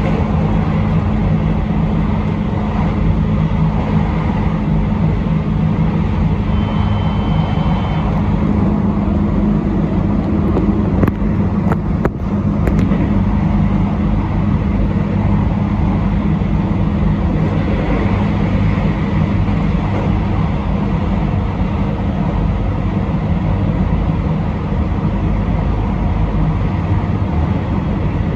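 A train running on the line, heard from inside: a steady drone of its drive machinery and the wheels rolling on the rails. A short high tone sounds about seven seconds in, and a few sharp clicks come around twelve seconds.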